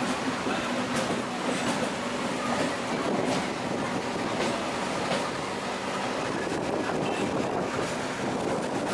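MEMU electric local train running along the track: a steady rolling rumble, with scattered sharp clicks of the wheels over rail joints.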